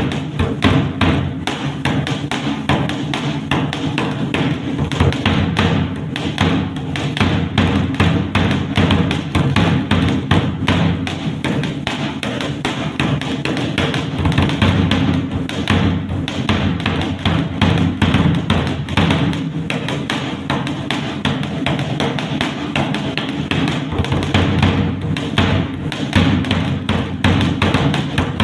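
Dhak, a large barrel-shaped folk drum, played fast with sticks: a dense, unbroken stream of strokes.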